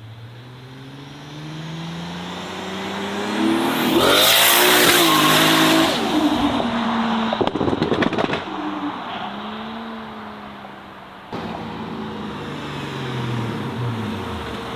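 A car accelerating past with its engine note rising in pitch, loudest about four to six seconds in, followed by a quick burst of crackling around eight seconds. Another car's engine then runs at a lower, steadier pitch.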